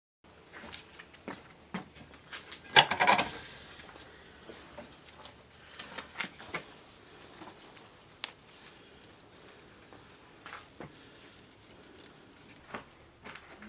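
Kitchen handling sounds: scattered light knocks and clinks, with a louder clatter about three seconds in.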